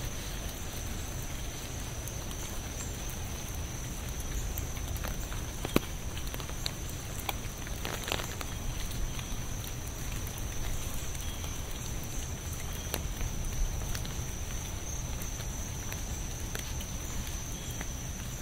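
Steady rain with scattered sharp drip ticks and a few louder splashes, over a constant high-pitched tone.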